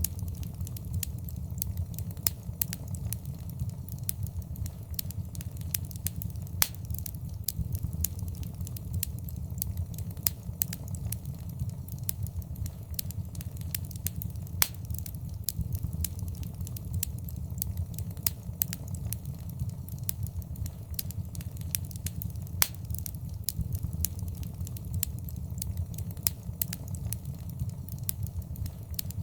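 Wood fire in a fireplace crackling, with a steady low rumble and frequent sharp pops and snaps, a few of them louder.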